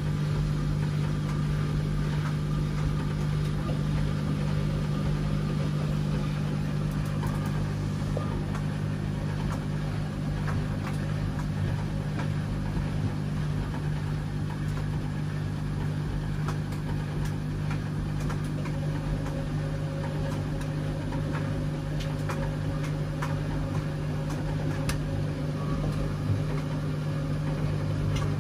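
Washing machine running with a steady low hum and scattered faint ticks.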